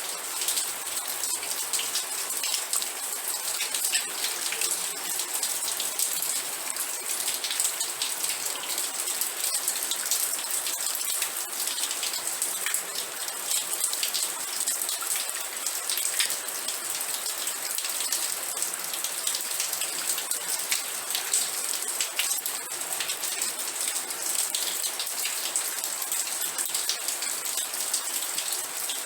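Steady rain falling, a dense hiss full of the quick ticks of individual drops striking a surface.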